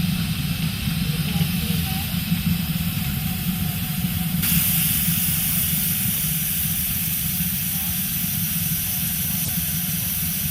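Steam hissing steadily from a live-steam miniature locomotive, over a low rumble, getting louder about four seconds in.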